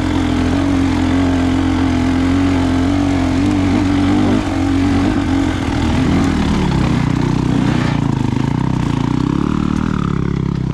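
Dirt bike engine running while riding the trail, holding a steady note, then dropping in pitch about four seconds in and wavering at lower revs.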